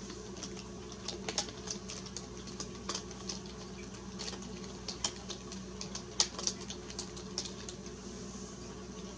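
Small birds at a sunflower-seed feeder making irregular sharp ticks and clicks, a few a second for several seconds, over a steady low hum.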